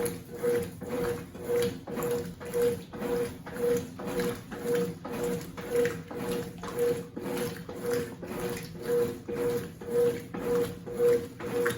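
Consul 8 kg (CWC08) washing machine agitating a bedspread in water: the motor hums and the wash churns in a steady rhythm of about two strokes a second as the agitator swings back and forth.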